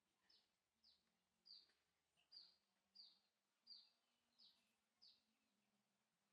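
Faint series of short, high chirps, each sliding downward, about eight evenly spaced over five seconds, from a bird.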